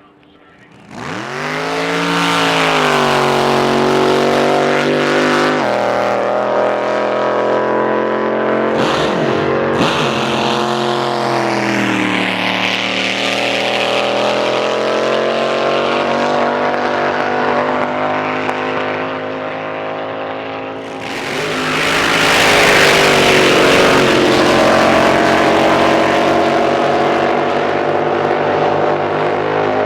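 Drag boat engine running loud and revving, its pitch rising and falling. It eases off around twenty seconds in, then surges louder again.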